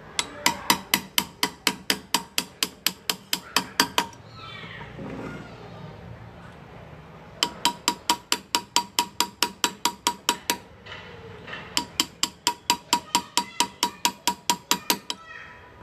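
Small hammer tapping a hand-engraving chisel into metal: quick, even strikes about six a second, each with a short ring, in three runs with pauses between them.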